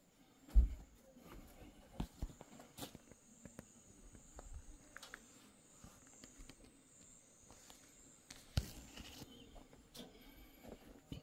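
Irregular footsteps and scattered knocks, the loudest less than a second in and again about eight and a half seconds in, over a faint steady high-pitched whine.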